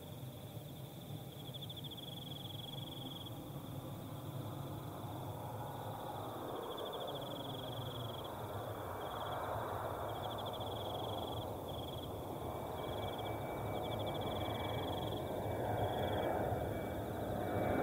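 Crickets trilling in short repeated bouts over the rising rumble of an approaching jet airliner. The jet grows steadily louder, and a thin steady whine joins it about two-thirds of the way through.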